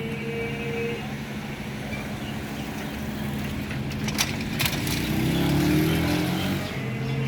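Motor vehicle engines running steadily in street traffic. A couple of sharp clicks come a little after four seconds in. About five seconds in, one vehicle accelerates, its engine note rising, and this is the loudest part.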